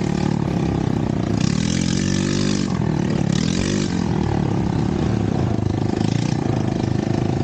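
Off-road buggy engine running steadily under way, revving up and easing off twice in the middle.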